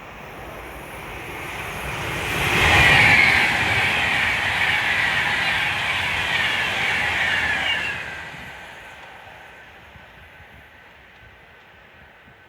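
Class 390 Pendolino electric train passing with a rushing noise that builds over the first two seconds, holds loud for several seconds, then fades away after about eight seconds.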